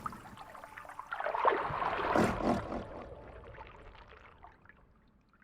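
Watery swishing and gurgling with a few soft knocks. It swells about a second and a half in, then fades away toward the end.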